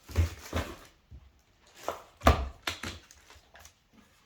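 Hard plastic vacuum cleaner accessories knocking and clattering as they are handled and set down: a few sharp knocks, the loudest a little over two seconds in.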